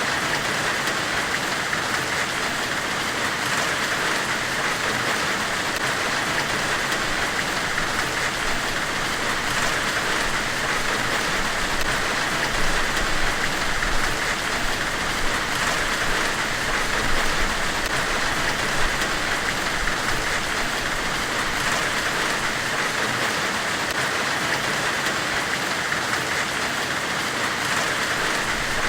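Steady hissing white noise with no breaks or rhythm, brightest in the upper-middle range: an ambient noise track made to evoke the hiss of a forge during forge-welding.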